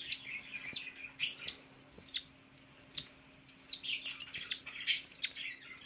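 Baby budgerigar chick begging for food at feeding time: a run of short, high, downward-sliding calls, about one every two-thirds of a second.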